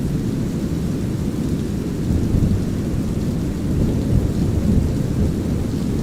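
Mixed thunderstorm ambience: a steady deep rumble of brown noise under a light, even hiss of drizzle, with low rolling thunder that swells slightly about two seconds in and again near the fifth second.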